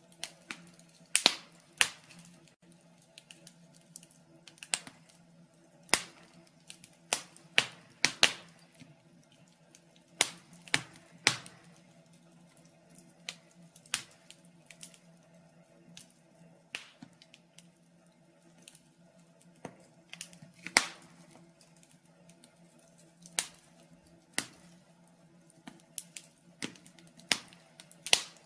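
Fire in a fireplace crackling: irregular sharp pops and snaps, about one or two a second and some much louder than others, over a faint steady hum.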